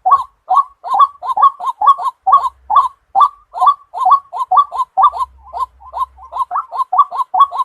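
White-breasted waterhen calling, a fast unbroken run of loud, short 'ruak' notes at about three to four a second: the waterhen's lure call used for trapping.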